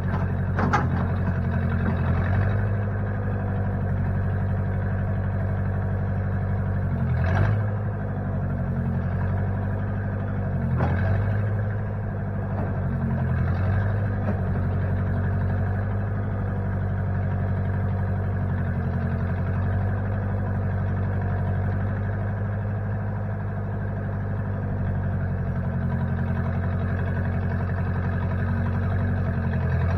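Engine of a 1960 Case 540 tractor-loader-backhoe running steadily at low speed. It changes speed slightly a few times, with brief clunks near the start and about 7 and 11 seconds in.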